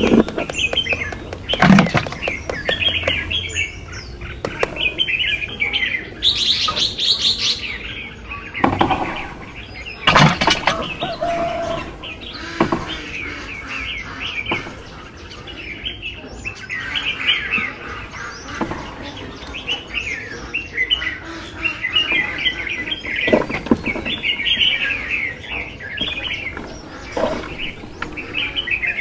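Small birds chirping and twittering continuously, with a few short sharp knocks scattered through.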